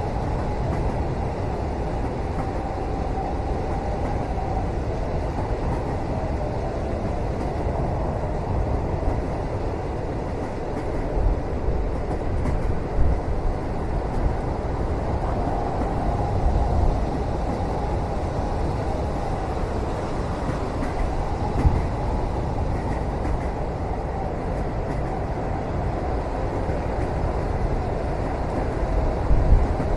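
Steady low rumble of a moving train carriage heard from inside the cabin, with a few soft low knocks now and then.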